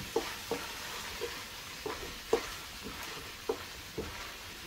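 Ground beef and diced zucchini sizzling in a nonstick pot while a spatula stirs them. The spatula knocks and scrapes against the pot several times, loudest about two and a half seconds in.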